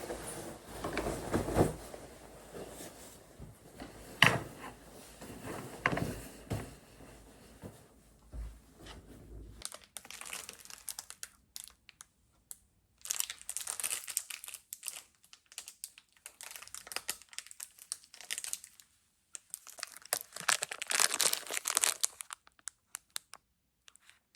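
Crinkling and rustling of something being handled, in several bursts, with a few sharp knocks in the first half.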